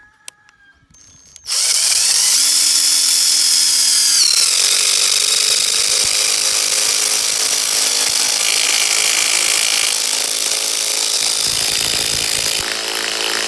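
Ryobi ONE+ 18-volt brushed impact driver driving a 100 mm hex-head wood screw into old hardwood with no pilot hole. It starts about a second and a half in and runs loud and steady, its pitch dropping about four seconds in.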